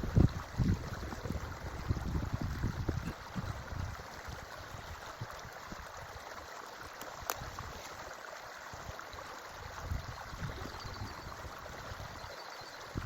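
Forest creek water flowing steadily, with uneven low rumbling in the first few seconds and a single sharp click about seven seconds in.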